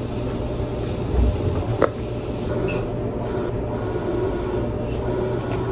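Laundry machine running: a steady low hum under a churning rumble, with a single click about two seconds in.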